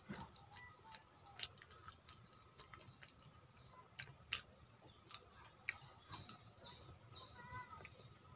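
Faint chewing and scattered sharp mouth clicks from someone eating with their hands, with a few faint bird chirps in the background.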